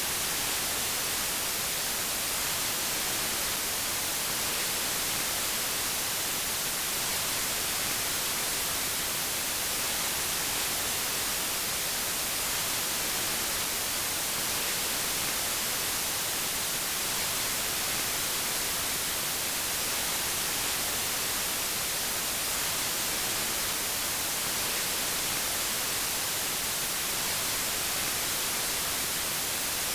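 Steady, unbroken white noise: an even hiss across the whole range, strongest in the highs.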